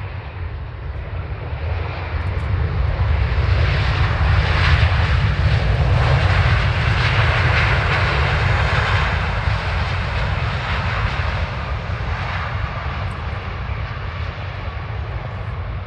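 Airbus A350-900's Rolls-Royce Trent XWB engines at full takeoff power as the airliner rolls and climbs out. The roar builds to a peak about five seconds in, then slowly fades.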